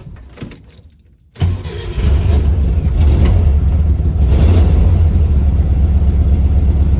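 Carbureted Volkswagen engine started on a test run after an ignition coil swap: a few light clicks, then it catches about a second and a half in and settles into a steady idle. It sounds good at idle with no load, though it is being checked for a sputtering fault.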